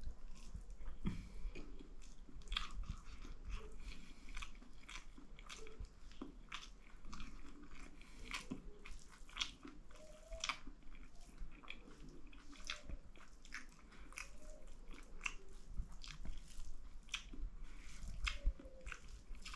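A person chewing a mouthful of dal bhat (rice with lentil soup) and lapsi pickle, heard close up: irregular wet mouth clicks and small crunches, about two a second.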